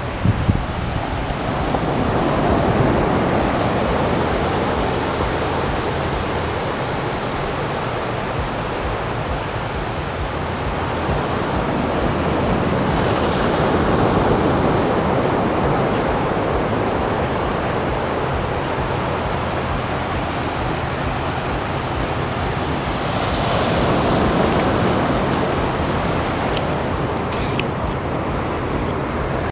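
Loud rushing of wind and surging water, swelling louder about every ten seconds.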